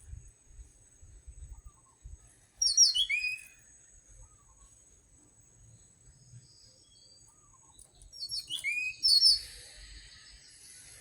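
Orange-headed thrush singing: two short song phrases about six seconds apart, each a quick run of whistled notes falling in pitch.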